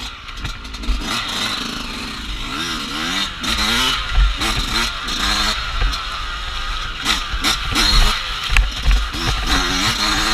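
Off-road dirt bike engine revving up and down again and again as it is ridden over a trail, with irregular low thumps.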